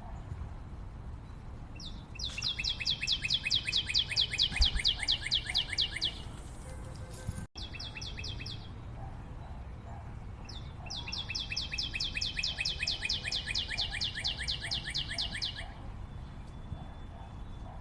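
A bird singing a fast, even run of high, sharp notes in two bouts of about four seconds each, with a short burst between them. Fainter repeated lower calls go on underneath.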